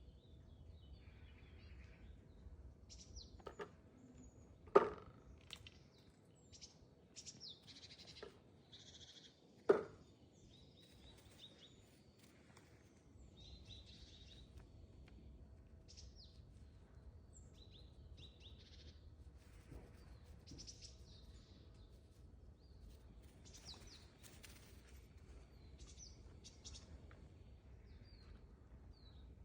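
Small birds chirping and calling here and there, with two sharp knocks about five seconds apart standing out as the loudest sounds, over a faint steady hum.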